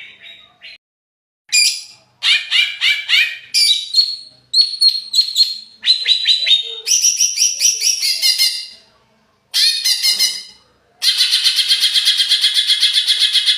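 A cucak ijo (green leafbird) singing in an agitated state: loud, high phrases of quickly repeated notes, broken by short pauses. About eleven seconds in it switches to a continuous fast rattling trill of roughly ten notes a second.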